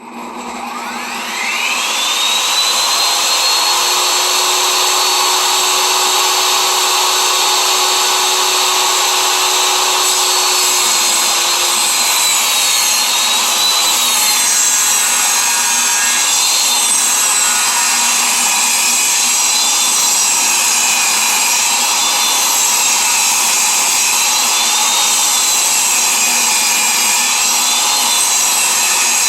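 Table saw switched on, its motor whine rising to full speed over about two seconds and then running steadily. From about halfway on the whine dips and recovers again and again as the blade rips a thin strip off a board's rough edge.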